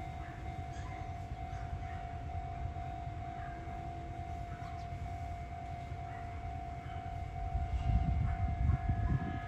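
Sotetsu Main Line train running past on the track: a steady low rumble that swells louder near the end, with a steady high tone held throughout.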